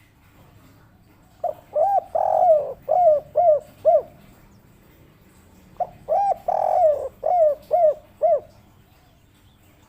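Spotted dove (derkuku, 'kuk 3' song type) cooing: two phrases of low coos, each with a longer drawn-out note in the middle followed by a run of short, evenly spaced coos.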